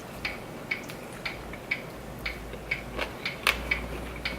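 A clock ticking steadily, about two ticks a second in an even tick-tock rhythm, with a louder click about three and a half seconds in.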